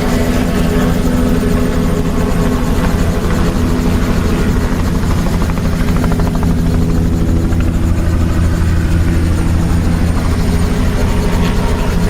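Helicopter running steadily and loudly: a continuous low engine and rotor drone with a fast, even pulsing of the blades.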